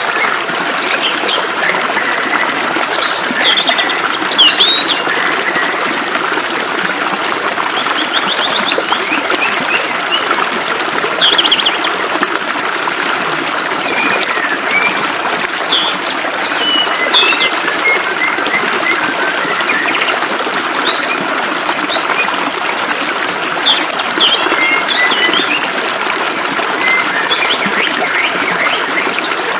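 Running water hissing steadily, with birds chirping over it throughout: short calls, quick upward glides and a few rapid trills.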